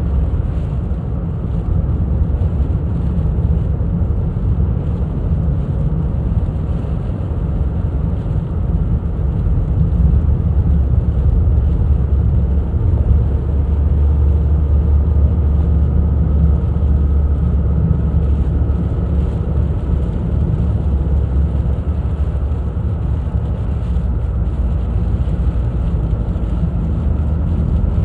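Steady low rumble of a car being driven: road and engine noise, unbroken throughout.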